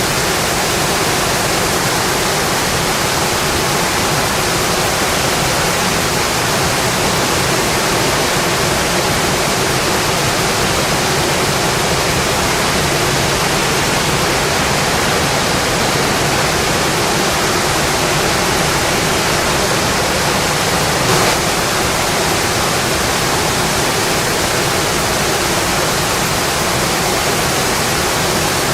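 Steady, dense rainfall.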